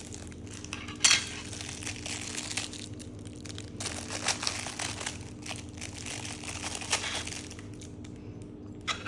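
Packaging crinkling and rustling, with small clicks and a sharper click about a second in, as the parts of a diecast model plane are handled and unwrapped.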